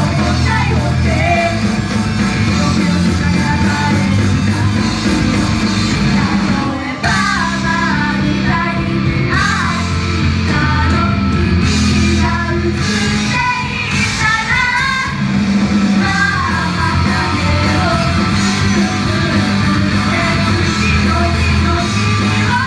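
Idol group singing live over loud backing music. There is a brief drop about seven seconds in, after which the sung voices come forward.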